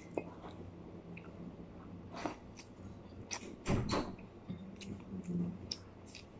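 A person chewing and eating pieces of chicken picked apart by hand, with scattered small clicks and mouth sounds. The loudest cluster comes about four seconds in, and there is a brief low hum a little after five seconds.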